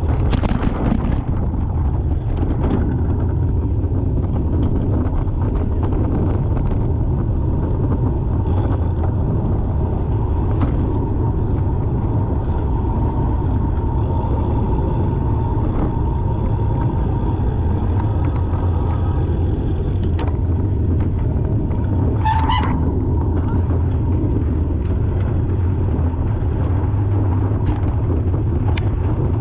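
Steady low rumble of a car's engine and road noise, with one short, high-pitched honk about 22 seconds in.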